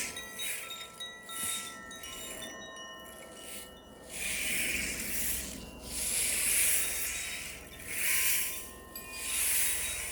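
Small metal chimes ringing, many tones overlapping and lingering, with a swishing, shaken sound swelling every second or two.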